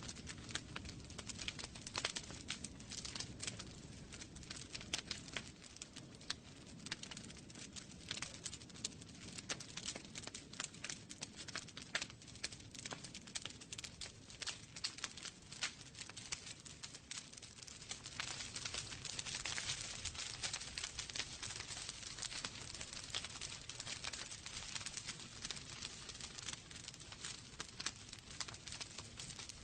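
Wood fire crackling in a fireplace: irregular sharp pops and snaps over a steady hiss of burning logs, with the hiss swelling for a few seconds about two-thirds of the way in.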